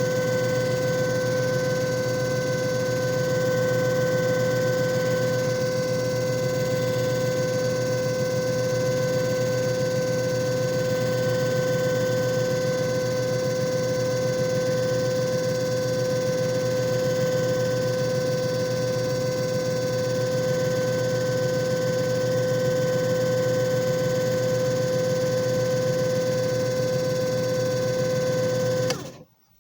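JFJ Easy Pro disc repair machine running with a steady motor hum and whine, then stopping abruptly near the end.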